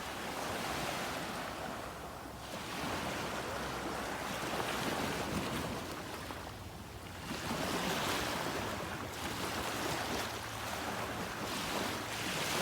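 Ocean surf washing in and out, with wind buffeting the microphone; the hiss swells and ebbs, dropping in brief lulls about two seconds in and around the middle before surging again.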